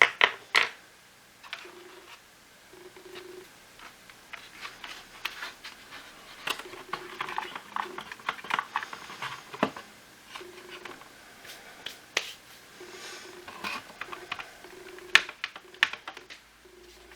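Irregular clicks, taps and scraping of plastic parts and tools being handled while a Shark cordless vacuum cleaner is taken apart, with a faint low tone that comes and goes.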